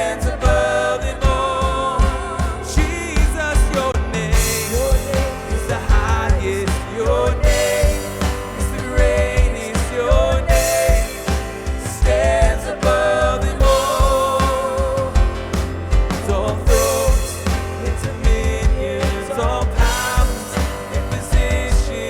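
Live worship band music: a steady drum beat with cymbal washes under sustained keys and guitar, and a melody line that wavers with vibrato over it.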